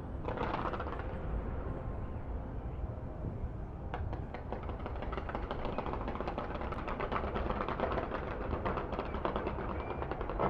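Fireworks going off in a rapid crackling barrage, many pops a second from about four seconds in, after a single burst near the start, over a low steady rumble.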